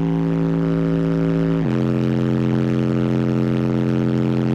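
Car audio subwoofers playing a loud, sustained bass tone with a buzzy, distorted edge. The tone steps down to a lower note about a second and a half in.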